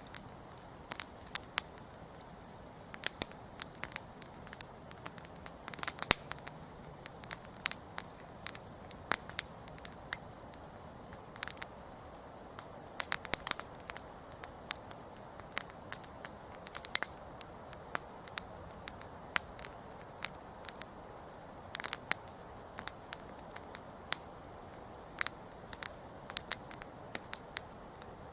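Wood campfire burning, with frequent sharp, irregular crackles and pops over a soft steady hiss of flame.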